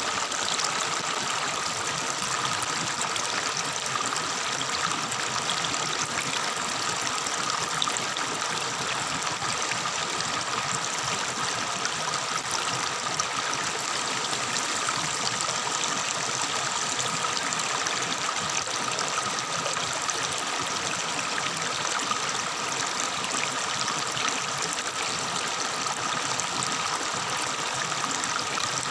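Water of a tropical forest river flowing and babbling, a steady even rush.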